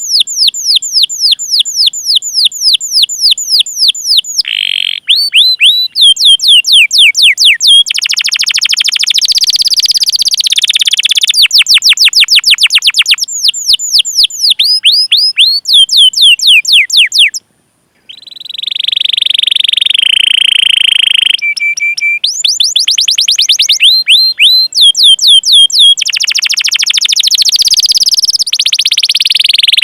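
Domestic canary singing a long song of fast repeated falling 'cuit cuit' chirps and rolls. Just past halfway it breaks off briefly, then holds one steady whistled note for a few seconds before the chirp trains resume.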